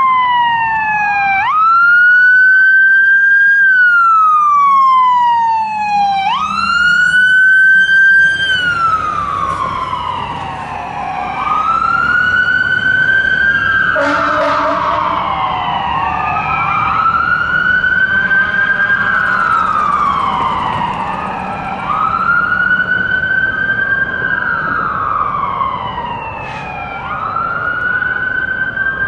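Fire truck sirens wailing as the apparatus responds. Each cycle rises quickly and falls more slowly, repeating about every five seconds. From about eleven seconds in a second wail overlaps out of step with the first.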